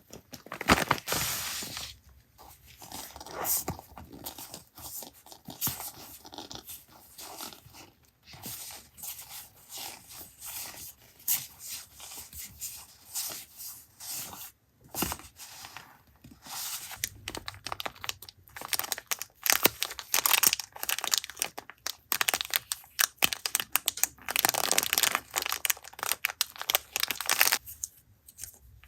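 Paper being handled by hand: irregular rustling, crinkling and tearing noises in bursts, busiest near the start and over the last third.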